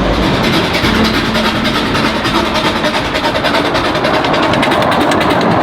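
Park train running, with a fast, even beat of ticks over a steady rumble.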